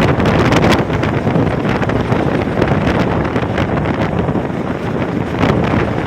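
Loud, steady wind buffeting a phone microphone, with a few brief rustling gusts.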